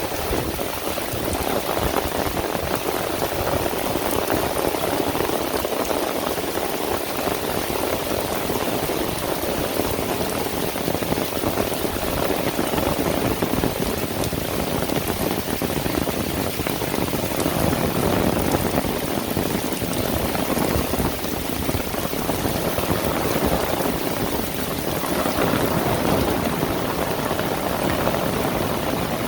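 Heavy rain falling steadily, a dense, loud patter of drops that swells a little now and then.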